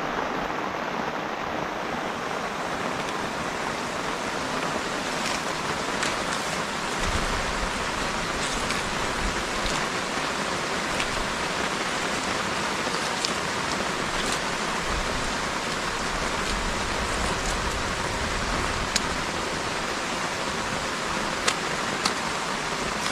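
Steady rain falling, an even hiss with a few sharp drips ticking now and then.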